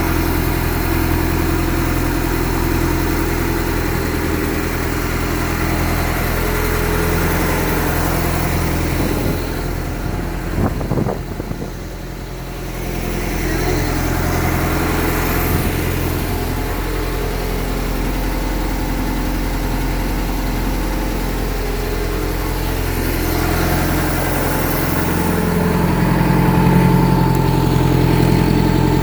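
A 1976 Mercury 2.5-litre inboard/outboard boat engine running steadily. About ten seconds in it dips briefly with a few uneven knocks, then settles again and runs a little louder near the end.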